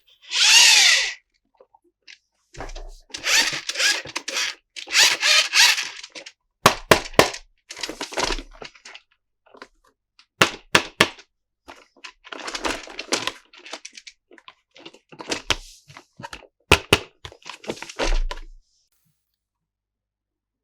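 A plastic toy playset and its packaging being handled: bursts of crinkling and rustling, with sharp plastic clicks and snaps in between.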